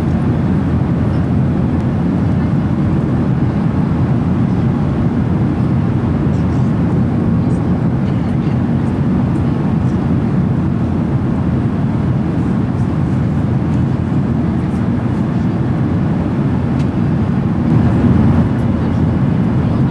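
Steady in-flight cabin noise of a Boeing 737-800: an even, deep rush of airflow and CFM56 engines at cruise.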